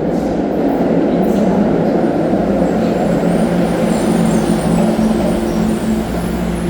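A train running past on the rails: a loud, steady rumble with a faint high-pitched squeal above it.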